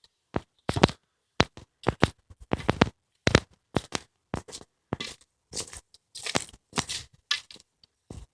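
Footsteps crunching along a forest path at a walking pace, about two short dry crunches a second.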